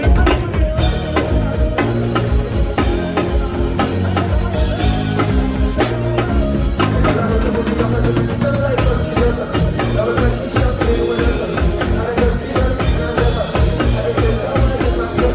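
Live band playing during a sound check: drum kit hitting a steady beat over sustained bass notes, with a wavering melody line joining about nine seconds in.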